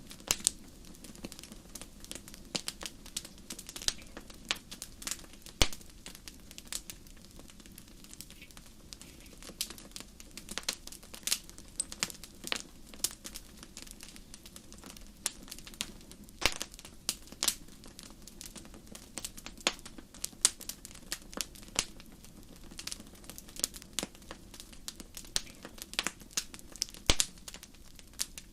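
Wood fire crackling: a steady stream of irregular snaps and pops, a few louder than the rest, over a low, even rumble.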